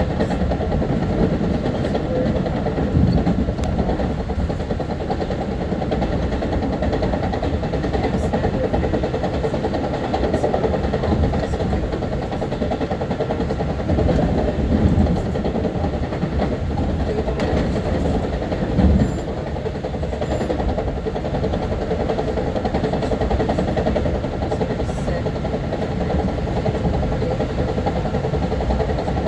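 Long Island Rail Road M3 electric multiple-unit train running, heard from inside the car: a steady rumble of wheels on rail and running gear with a faint steady hum. There are a few brief louder bumps along the way.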